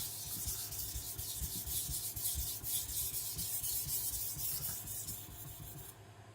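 Steel knife edge scraped back and forth on a wet Naniwa Professional 1000-grit whetstone under heavy pressure, a quick, even run of strokes that fades out near the end. This is the coarse stone setting a new edge after the fatigued edge metal was ground away.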